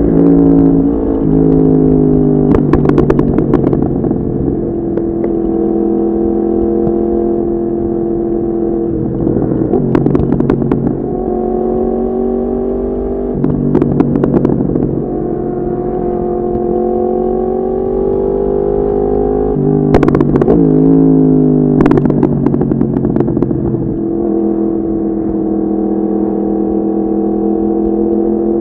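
Yamaha MT-10's crossplane inline-four running through an Akrapovic exhaust, heard from on board while riding; the engine note holds steady, stepping up and down in pitch several times, with a few short sharp cracks.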